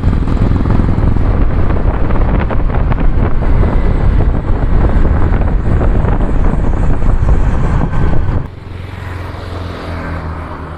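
2019 Royal Enfield Classic 350's single-cylinder engine and exhaust running loud under way; about eight seconds in the sound drops sharply to a steady, quieter idle.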